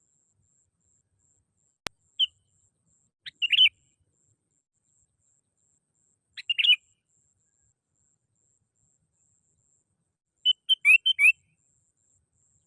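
Sooty-headed bulbul (kutilang) calling in short bursts of a few quick, clear notes, four bursts with pauses between them; the last one, near the end, is the longest, with several notes in a row. A single sharp click comes just before the first burst.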